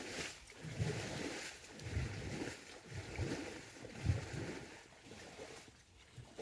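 Water sloshing in a run of low, dull strokes, about one every three-quarters of a second, dying away near the end.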